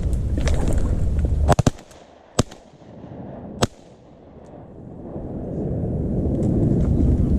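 Several shotgun shots fired at passing ducks: a quick cluster about a second and a half in, then two single shots about a second apart. A low rumble of wind on the microphone swells near the end.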